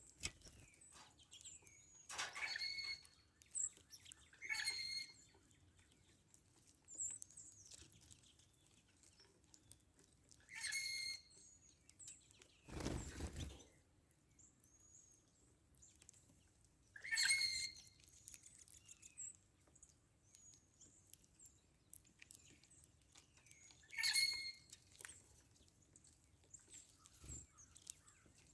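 Wild birds calling: a repeated harsh call, each under a second, comes about five times, with faint high chirps between. Near the middle there is one short rustle.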